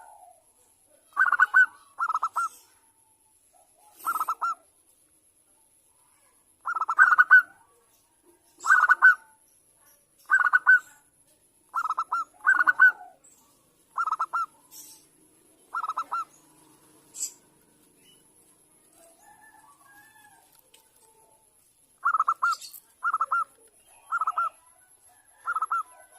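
Zebra dove (perkutut) cooing: short rippling call notes, one every second or two, with a pause of several seconds in the middle. This is a female's call, used as a lure to get male perkutut to answer.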